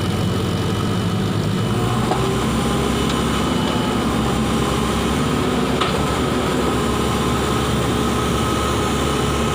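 Large vehicle engine running steadily at constant speed, an even low hum.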